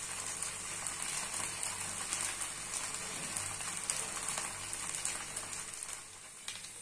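Potato-and-poha batter sizzling in a little oil on a hot griddle over a low-to-medium flame: a steady hiss that grows softer near the end.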